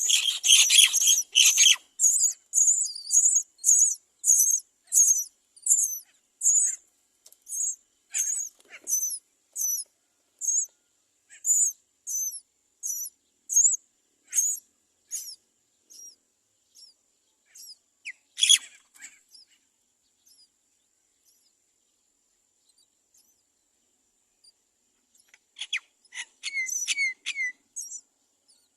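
Myna nestlings begging: short, high-pitched calls about twice a second that thin out and fade, then one louder call, and another quick cluster of calls near the end. These are hungry chicks crying for food at the nest.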